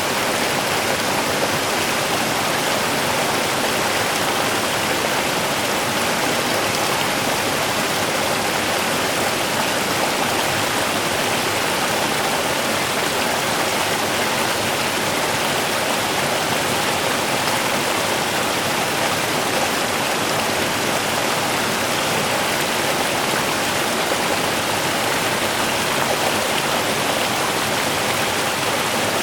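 A small river's water running steadily over stones, an even rushing and babbling with no breaks.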